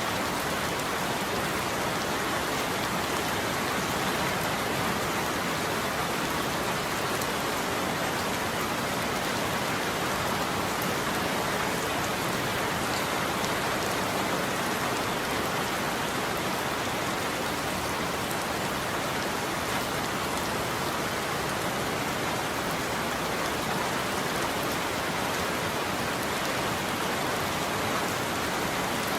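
Steady heavy rain falling on a roof, a dense even patter without thunder.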